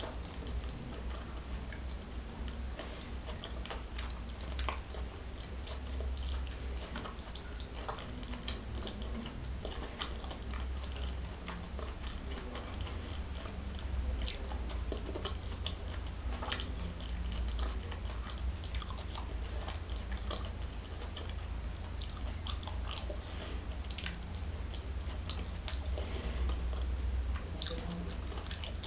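A person chewing a mouthful of food close to the microphone, with many small, wet mouth clicks throughout.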